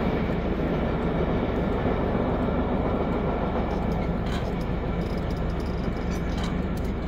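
Steady low rumble of a BNSF freight train moving on from the crossing, slowly fading.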